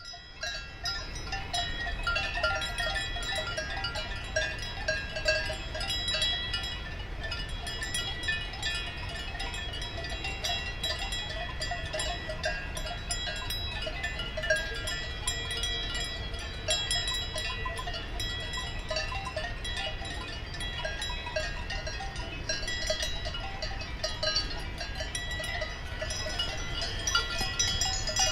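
Cowbells on a grazing herd clanking irregularly without pause, several bells of different pitches ringing over one another above a steady low rumble.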